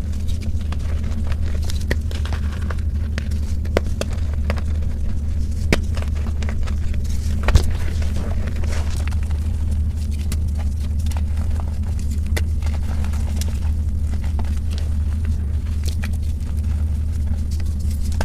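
Blocks of gym chalk being crushed and crumbled close to the microphone: scattered sharp crunches and crackles over a steady low rumble.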